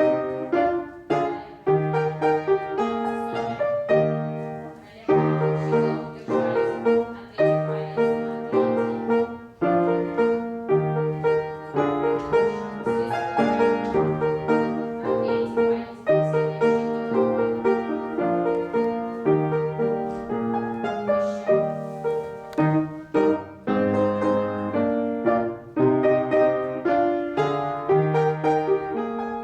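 Piano playing an evenly metered accompaniment for a ballet class exercise: struck chords and melody over a low note that returns about once a second.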